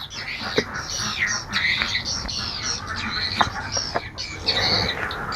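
Many ducklings peeping at once: high, short calls overlapping continuously, with a few light taps among them.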